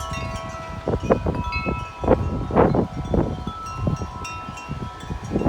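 Large metal tube wind chimes ringing and clanging continuously in strong, loud wind gusts. Several tones sound at once. Gusts buffet the microphone, heaviest about a second in and again around the middle.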